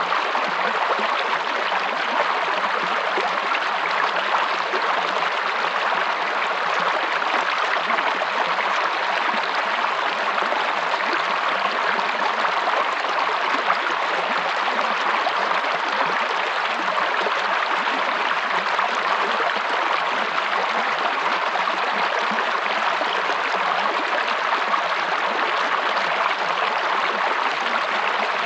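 River water running over rocks: a steady rushing and babbling with no change in level.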